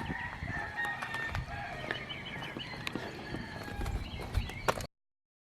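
Birds calling: short chirps and cluck-like calls, with scattered clicks. The sound cuts off abruptly near the end.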